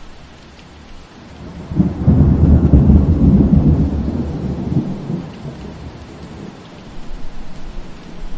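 Steady rain, with a rumble of thunder that swells about two seconds in, stays loud for about three seconds and then fades away.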